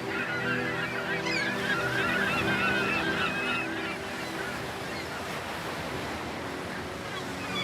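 A flurry of squeaky, wavering animal calls over a steady low drone; the calls die away about halfway through.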